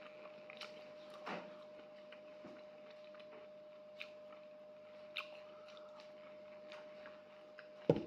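Chewing of a mouthful of canned corn kernels, with a few light clicks of a metal fork against the tin. Near the end a single thump, the loudest sound, as the tin is set down on the table.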